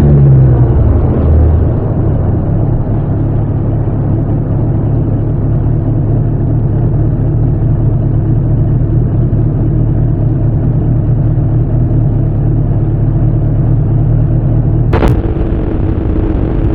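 Bimota SB3's Suzuki GS1000 air-cooled inline-four running under way, its exhaust loudest for the first second and a half, then settling to a steady note at a lower level. A brief sharp knock comes about fifteen seconds in.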